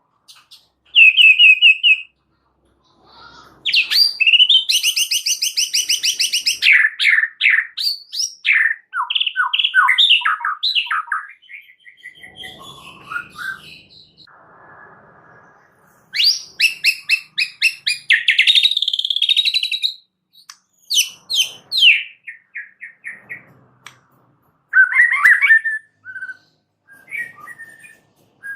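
A white-rumped shama singing a varied, lively song: bursts of rapid trills, sweeping whistles and chattering phrases, broken by short pauses.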